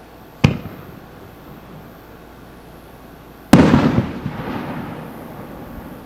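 A preloaded consumer aerial firework shell firing: a sharp thump as it lifts from its tube, then about three seconds later the louder boom of the shell breaking overhead, fading away over a couple of seconds.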